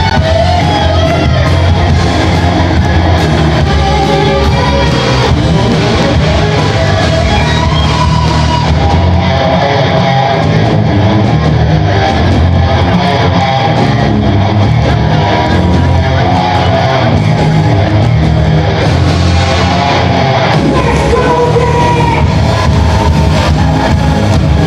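Live rock band playing a song, loud and continuous, with guitar and a singing voice over a heavy bass.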